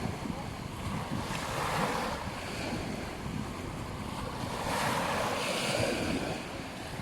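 Ocean surf on a beach: waves washing in, swelling louder about two seconds in and again between five and six seconds, with wind rumbling on the microphone.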